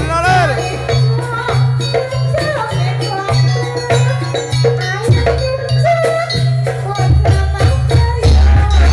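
Loud jaranan music from a live ensemble: a melody that slides up and down between notes over heavy low drum beats and dense, rattling percussion.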